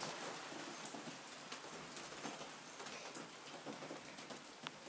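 Rain pattering as a hailstorm dies down: a steady, fairly quiet hiss with scattered sharp ticks of drops hitting.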